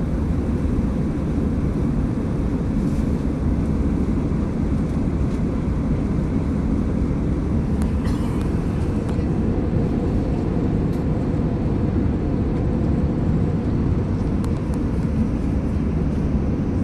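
Steady airliner cabin noise in flight: a deep, even drone of engines and airflow, with a few faint ticks.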